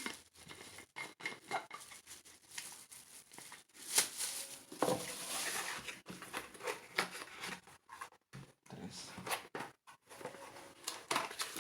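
Handling of a plastic-wrapped tumbler: plastic bag crinkling and rustling, with a longer stretch of rustle about four to six seconds in, among light clicks and knocks of the plastic tumbler, lid and straw.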